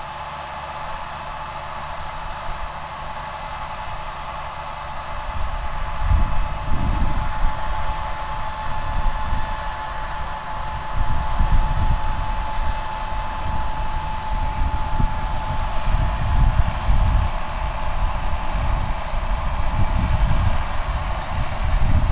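Case IH Magnum 305 tractor running with a steady high whine over it. About six seconds in, an uneven low rumble comes in and stays louder.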